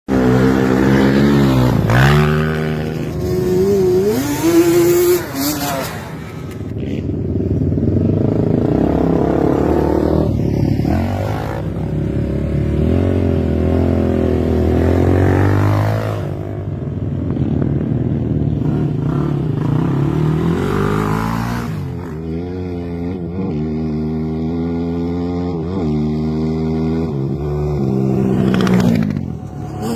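Quad bike engines revving and passing by. Their pitch rises and falls over and over as the riders accelerate and ease off.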